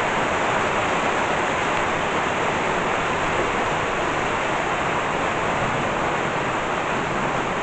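Steady rain falling at the tail end of a thunderstorm, eased to a light-to-moderate rain, about a 2 or 3 out of 10.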